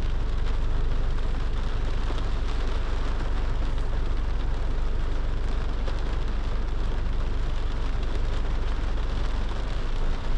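Steady rain with a fine patter of drops, over the constant low rumble of a car driving in the rain.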